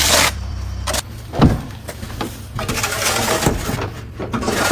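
A vehicle running with a low hum, broken by scattered knocks and one louder thump about a second and a half in.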